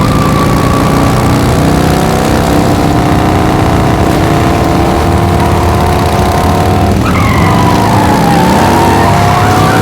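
Engine sound effects of several cars running and revving together, with a rising pitch about seven seconds in as one accelerates.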